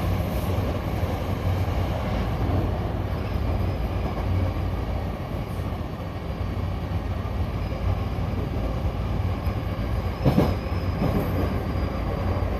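Hankyu electric commuter train running between stations, heard from on board: a steady rumble of wheels on rail and running gear with a faint thin high whine. A single sharp knock about ten seconds in.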